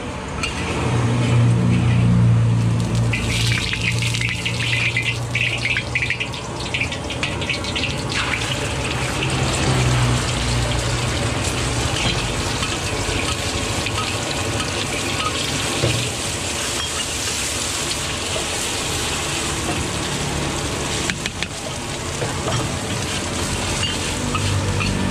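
Eggs and oil sizzling in a large steel wok, with a metal spatula scraping and clinking against the pan as they are scrambled; the sizzle turns louder about three seconds in. A steady low hum runs underneath.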